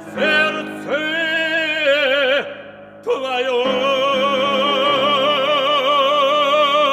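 Operatic solo voice singing the closing words of a Russian romance over piano accompaniment. A short phrase is followed by a brief break, then the singer holds one long final note with wide vibrato.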